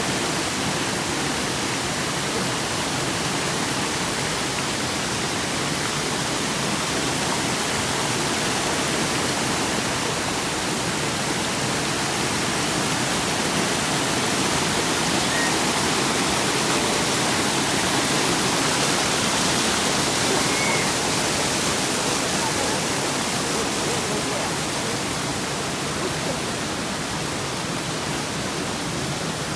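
Waterfall pouring into a pool: a steady, unbroken rush of falling water, swelling slightly in the middle.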